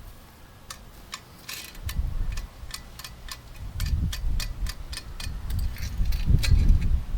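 A run of light, irregular clicks and taps, with heavy low rumbling bumps coming and going from about two seconds in.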